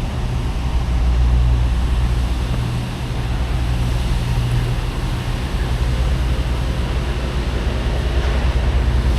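Semi-truck diesel engine running steadily with a low hum, under a constant rushing noise.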